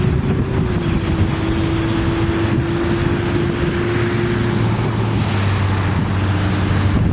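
Strong storm wind blowing on the microphone with a continuous rushing noise. Underneath runs a steady low hum, and a higher steady tone that fades out about two-thirds of the way through.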